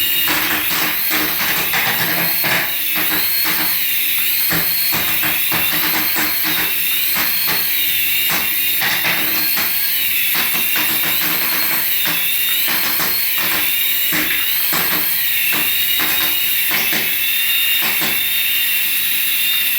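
Small electric motor of a remote-control toy whirring, its high whine wavering up and down in pitch, with rapid irregular clicks and knocks throughout.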